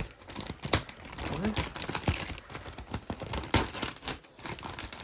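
Cardboard and plastic packaging being handled: rustling and crinkling with many sharp clicks and knocks.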